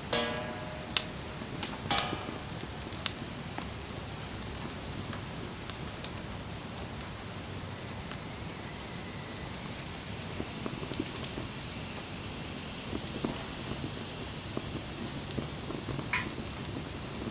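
Wood campfire crackling steadily, with frequent sharp pops and snaps; the loudest come about one and two seconds in. A few short squeaky whistles can be heard among the crackles.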